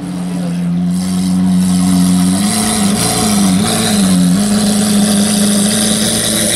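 Lamborghini Aventador's V12 idling steadily, with a few small rises and falls in pitch from light throttle about three seconds in.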